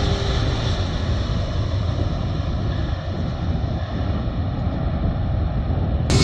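Jet airliner engine noise: a steady, muffled low rumble, which about six seconds in switches abruptly to a louder, fuller sound.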